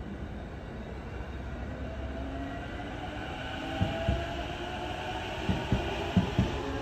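Electric commuter train gathering speed, its traction motor whine rising in pitch. From about four seconds in come pairs of wheel clacks over rail joints, coming quicker as it speeds up.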